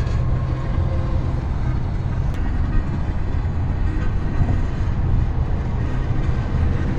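Steady low rumble of a vehicle's engine and road noise heard from inside the cab while driving.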